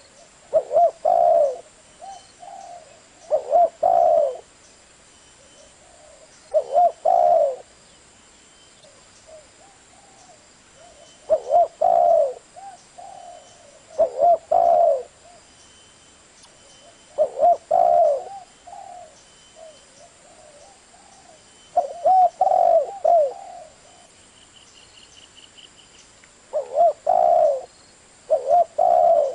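Spotted dove cooing: short phrases of low, hollow coos repeated every few seconds, about nine in all, with fainter coos between them.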